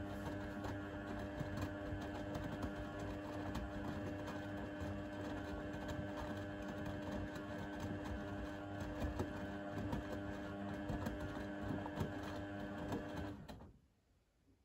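Blomberg fuzzyDigitronic Granat 3200 washing machine running during its 60 °C cotton/colour wash, a steady motor hum with light ticking. The hum cuts off suddenly about 13 seconds in, as the drum motor stops.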